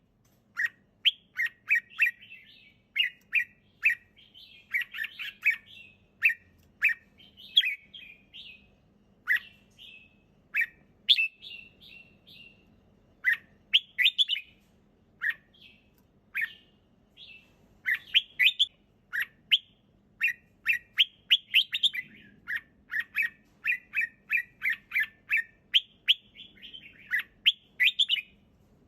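Red-whiskered bulbul singing: a steady stream of short, bright, chirping phrases, repeated quickly with brief pauses between runs.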